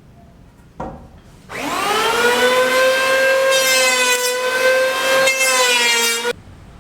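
An electric power tool's motor spins up with a quickly rising whine, then runs at a steady high whine that turns rougher for a while in the middle, and cuts off abruptly. A short knock comes just before it starts.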